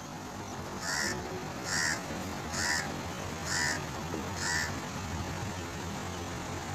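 A bird giving five short calls, evenly spaced a little under a second apart, over a steady low background rumble.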